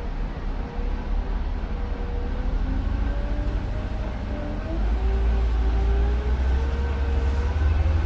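Scania K310UD double-decker bus's five-cylinder diesel engine pulling hard under a deep rumble, its whining tones climbing steadily in pitch as the bus accelerates and growing louder about five seconds in.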